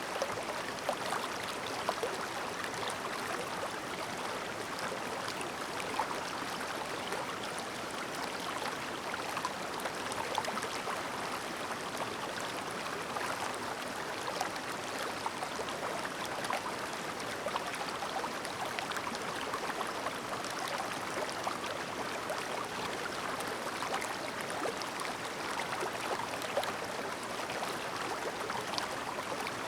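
Shallow clear mountain stream babbling over stones: steady water burble with fine splashes and trickles.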